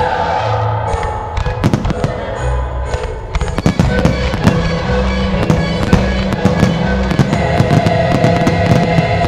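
Display fireworks going off in quick succession, many sharp bangs and crackles coming thicker from about three and a half seconds in, over the show's loud accompanying music.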